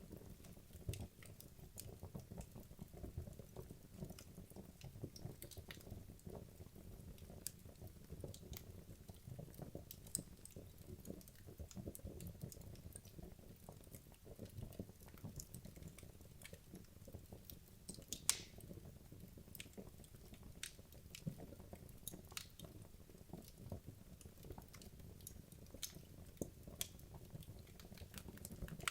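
Wood logs burning down in a fireplace: a low, steady rumble of flame with frequent small crackles and pops, one sharper pop about two-thirds of the way through.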